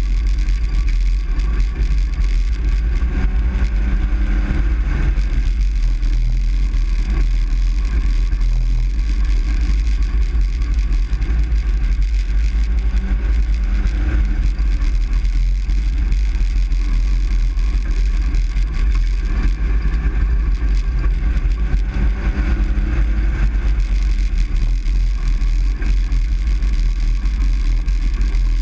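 Truck driving, heard from inside the cab: a steady low rumble of road and engine noise, with engine tones that rise and fall slightly.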